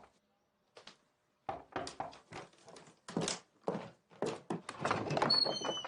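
A series of irregular knocks and thuds, getting busier near the end, with a few short high chirps just before the end.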